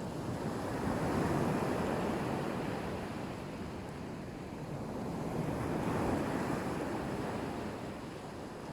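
Black Sea waves breaking and washing on a beach, the surf swelling twice, about a second in and again about six seconds in, with some wind on the microphone.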